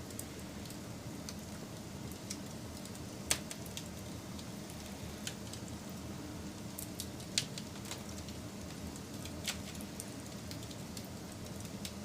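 Wood fire burning with a steady low rush and scattered sharp crackles and pops, the loudest snaps a little after three seconds and again about seven seconds in.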